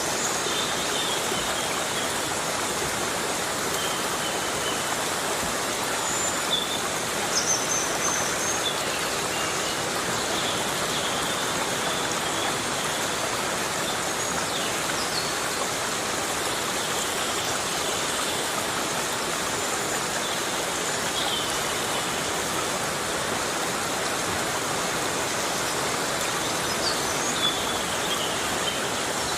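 Heavy rain falling steadily on rainforest foliage, an even hiss, with a few short high chirps here and there.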